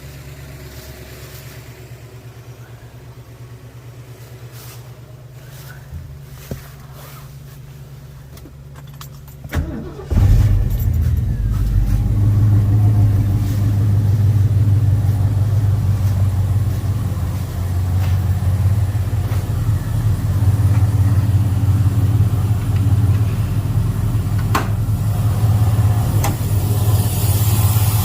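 A 1973 Ford Mustang Mach 1's 351 Cleveland V8 starts about ten seconds in, just after a click, then idles steadily and loudly. Before it starts, only a quieter low steady hum is heard.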